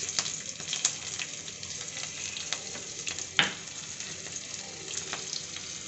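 Split green chillies and panch phoron frying in hot oil in a kadhai: a steady sizzle with fine crackling and one sharp pop a little past halfway.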